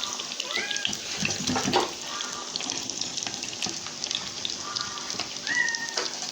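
Breaded chicken cutlets sizzling and crackling in a pan of hot frying oil as they finish cooking and are lifted out.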